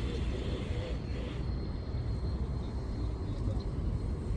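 Steady low outdoor rumble, with faint voices in the first second or so.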